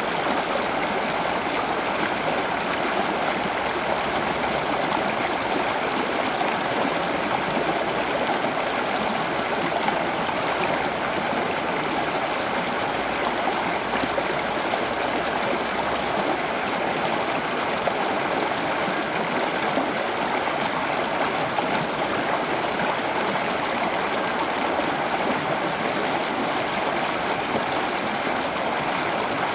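Water running steadily, an even, unbroken rush like a small stream.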